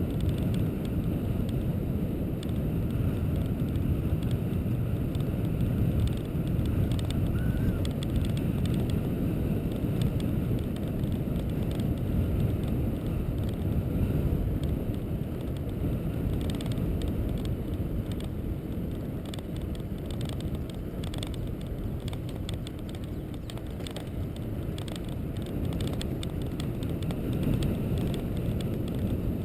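Wind buffeting the microphone of a moving camera as a steady low rumble, with scattered small clicks and rattles, more of them in the second half.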